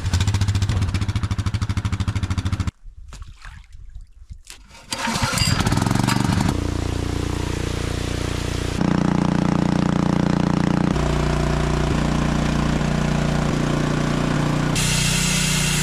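An engine running steadily, broken by abrupt jumps in pitch and level as the footage cuts, with a quieter stretch about three seconds in.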